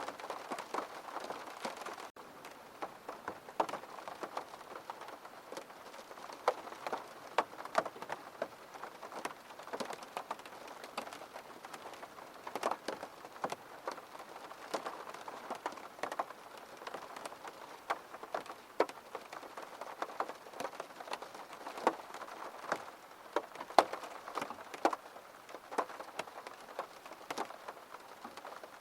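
Steady rain with many separate drops tapping at irregular moments over a soft hiss. There is a momentary break about two seconds in, after which the rain is slightly softer.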